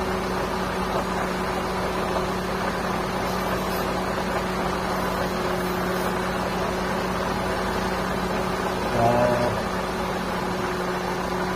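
Car engine idling with a steady hum and two constant tones. A brief voice-like sound comes about nine seconds in.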